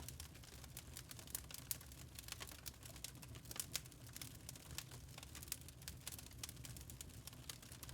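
Log fire crackling in a fireplace: a dense, irregular run of sharp crackles and small pops from the burning wood over a low steady rumble.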